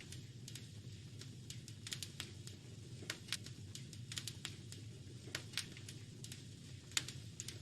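Wood fire crackling in a fireplace: irregular sharp snaps and pops several times a second over a steady low rumble of flame, with one louder pop about seven seconds in.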